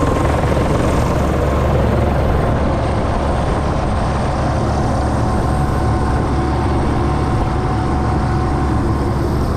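MD500C helicopter's Allison 250 turboshaft running at ground idle with the rotor turning, a steady drone with a faint, even whine.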